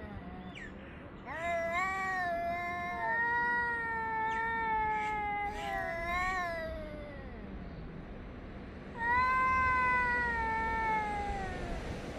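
Cats yowling at each other, a territorial caterwaul. A long drawn-out wail begins about a second in and slowly rises and falls for about six seconds. After a short pause a second long yowl starts about three-quarters of the way through.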